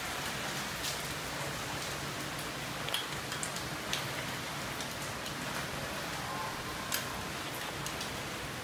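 Heavy rain falling steadily, an even hiss with a few sharp drip taps scattered through it.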